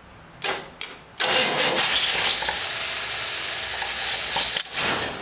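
Starter motor cranking a freshly rebuilt 283 cubic-inch small-block Chevrolet V8 on its first start-up: two short taps, then a steady crank of about three and a half seconds that cuts off, then one more brief tap.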